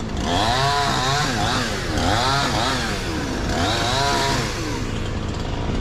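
Two-stroke chainsaw running, its engine pitch rising and falling three times as the throttle is worked or the chain bites into the wood.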